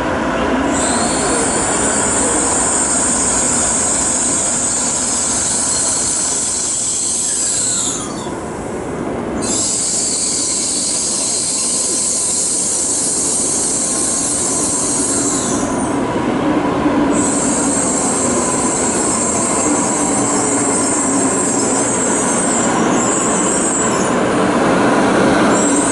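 Tokaido Shinkansen train at the platform, running with a steady mechanical noise, while a high-pitched sound comes in three long stretches of several seconds each with short breaks between them.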